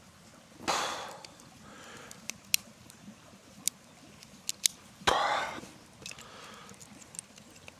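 Campfire crackling with scattered sharp pops, and two short breathy rushes of air close to the microphone, about a second in and about five seconds in.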